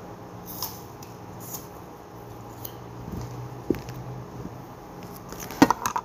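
Crunching and chewing crisp apple slices, with scattered sharp crackles through the bite. A louder cluster of knocks comes near the end.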